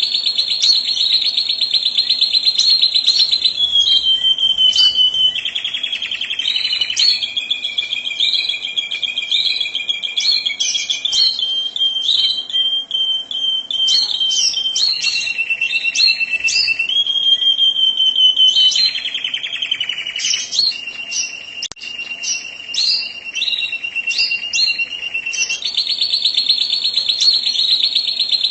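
Domestic canary singing long, unbroken rolling trills, its song shifting to a new pitch every few seconds, with short higher chirps over the rolls.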